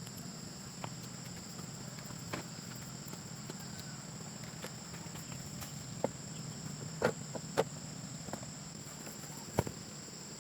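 Steady high-pitched drone of insects in the background, with a few scattered sharp knocks; the loudest knocks come a little after seven seconds in and again near the end.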